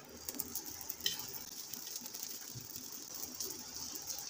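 Paratha sizzling in ghee on a hot tawa over a low flame: a steady hiss with many small crackles, and a sharper click about a second in.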